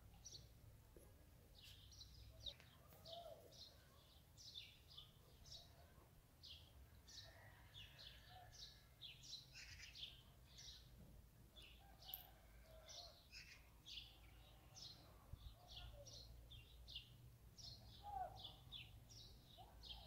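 Faint chorus of small songbirds chirping and twittering: many short, high calls overlapping throughout, with a few lower notes mixed in, over a low steady rumble.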